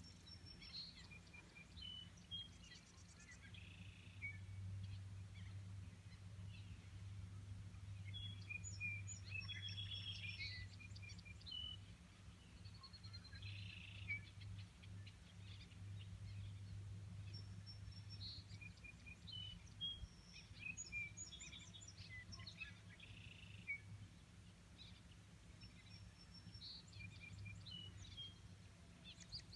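Faint songbirds chirping and whistling in scattered bursts of short calls, over a steady low hum.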